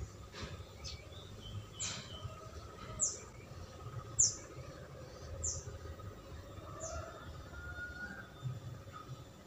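A small bird calling: a series of five short, high chirps, each sliding down in pitch, roughly one every second, over a low outdoor rumble.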